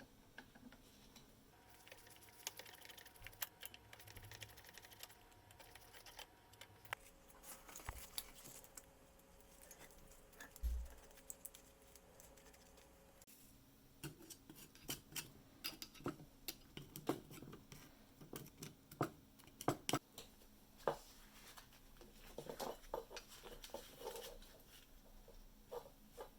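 Quiet, scattered light clicks, taps and scrapes of hand work on small parts, with a dull thump about eleven seconds in and a cluster of sharper clicks around twenty seconds.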